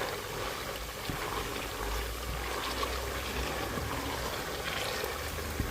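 Tomato paste and onions frying in hot palm oil: a steady sizzle.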